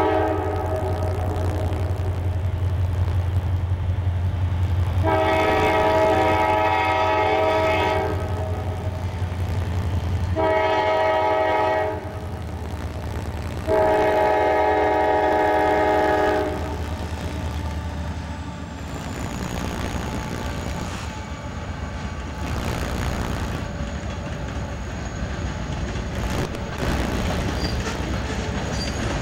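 CSX freight locomotive's multi-chime air horn sounding the grade-crossing signal: the end of one blast, then long, short, long, over the low rumble of the diesel engine. The train's cars then roll past with a steady wheel-on-rail rumble.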